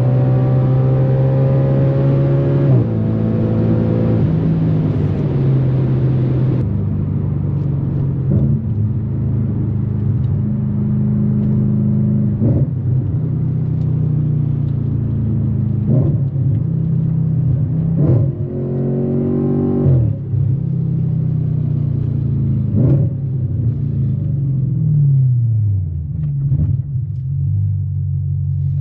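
Straight-piped 4.2 FSI V8 of an Audi RS4 B8 pulling hard with revs rising, through two quick upshifts early on. The engine then eases off to a steadier, lower drone, broken by short sharp knocks every few seconds. Near the end the revs fall away in steps.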